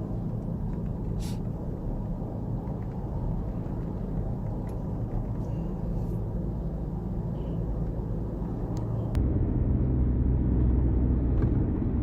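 Steady low rumble of a moving vehicle. About nine seconds in it switches abruptly to a louder, deeper rumble.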